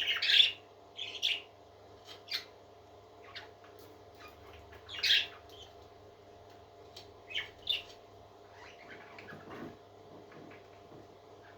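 Parrot giving short squawks and chirps, about six spaced calls, loudest at the start and about five seconds in, over a steady low hum.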